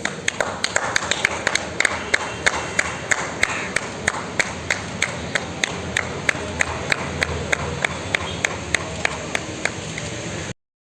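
Steady rhythmic clapping, about three claps a second, over a background of noise; it cuts off suddenly near the end.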